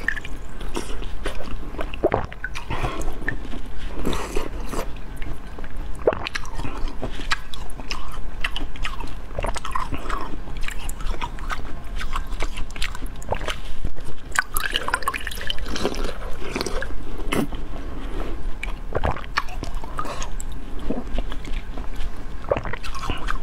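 Close-miked wet, sticky biting and chewing of a glistening, sauce-soaked morsel, with smacking mouth clicks and sauce dripping back into the bowl.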